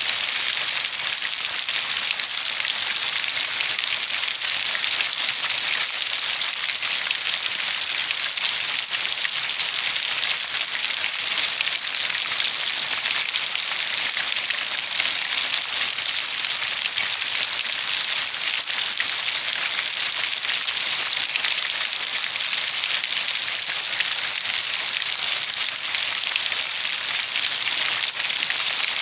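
Steady heavy rain falling on a surface: an even, unbroken hiss of many drops with no pauses.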